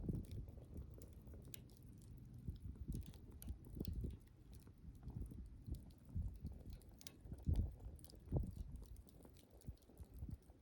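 Wood campfire burning: irregular crackles and small pops over a low rumble, with two louder pops a little past the middle, a little under a second apart.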